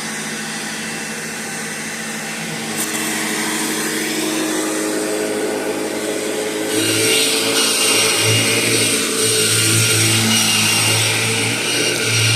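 1998 Kirby Generation 5 upright vacuum running steadily on a freshly replaced belt, sounding healthy. It gets louder and harsher about seven seconds in.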